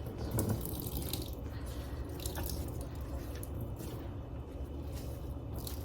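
Liquid dripping and trickling from grated cucumber wrung out in a cloth, with scattered small splashes over a low steady hum.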